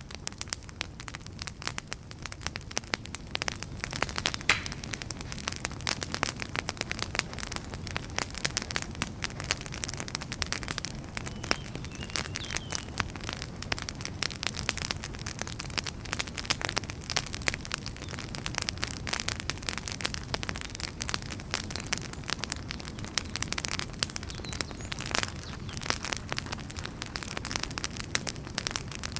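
Wood fire burning, crackling with dense irregular snaps and pops over a steady low rumble of the flames.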